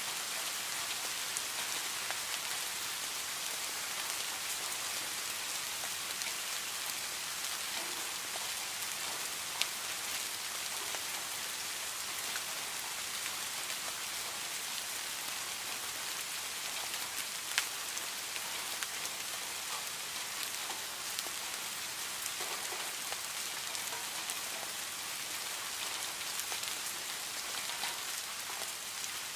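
Steady rain falling on leaves, grass and shrubs, an even hiss of many drops. Twice a single louder drop hit stands out.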